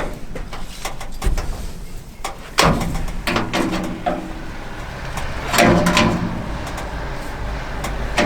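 Metal clanks and scraping from a Massey Ferguson 550 combine's sheet-metal straw walker as its bent teeth are worked back straight with lineman's pliers. There are a few sharp knocks, with the loudest near the start and again about two-thirds of the way through.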